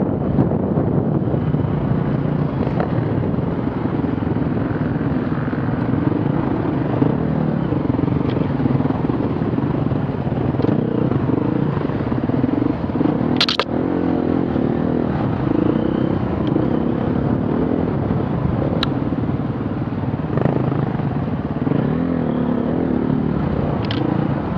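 Off-road vehicle engines running, their pitch rising and falling as they rev, with one sharp knock about halfway through.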